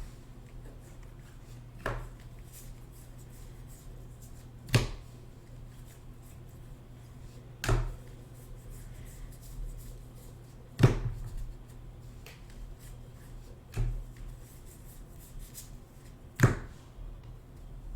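Trading-card packs and cards being handled on a table: a sharp knock or slap about every three seconds, with softer rustling between, over a steady low electrical hum.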